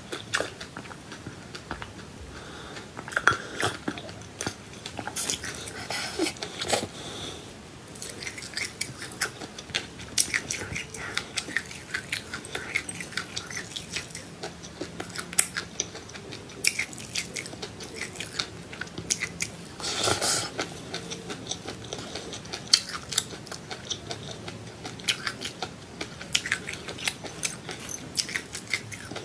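Close-up chewing and crunching of small seeds: irregular wet clicks and crackles, with a few louder crunches.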